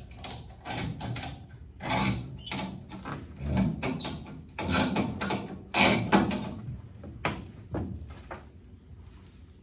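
Irregular bursts of mechanical rattling and scraping, as of metal parts being handled and shifted, easing off near the end.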